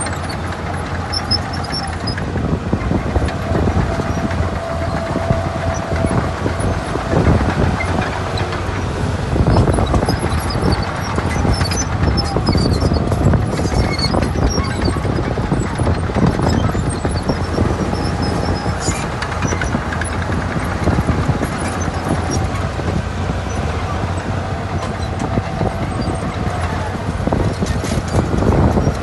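Heavy diesel earthmoving machinery running steadily under load, with a continuous low rumble and irregular clatter throughout.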